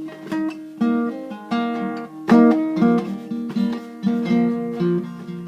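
Acoustic guitar playing an instrumental phrase between sung lines, notes plucked and strummed in a steady rhythm, with a louder strum about two seconds in.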